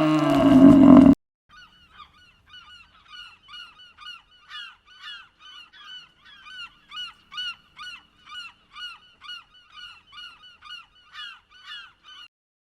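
A loud, low animal call cut off abruptly about a second in, followed by a bird giving short, high calls over and over, about two or three a second.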